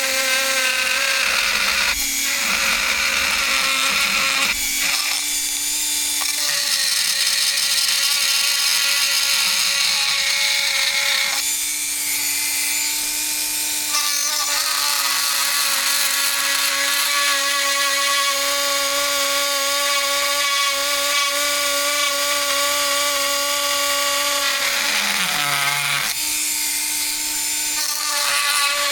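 Dremel rotary tool running at high speed while cutting tail-light plastic. Its steady whine changes pitch several times as the bit bites and frees up, and near the end it slows down sharply and spins back up.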